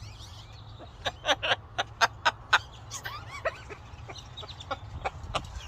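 Pet parrot giving a quick run of short, loud, chirping call notes, about eight in a second and a half, followed by softer scattered chirps.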